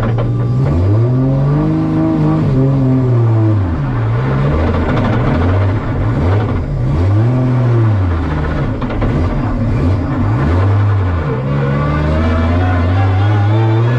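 Toyota 2JZ straight-six engine of a Supra drift car, heard from inside the cabin, revving up and dropping back several times as the car is driven, then climbing steadily near the end.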